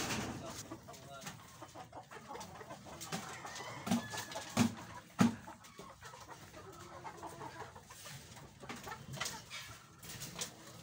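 Birds calling, with three dull knocks in quick succession about four to five seconds in.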